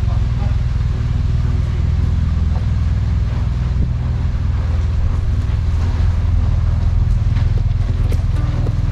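Motorcycle engine running steadily at low revs, with a few light clicks near the end.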